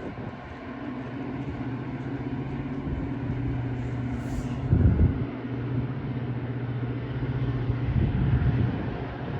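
Diesel locomotive engine running steadily with a low hum, with two brief louder low thumps about five and eight seconds in.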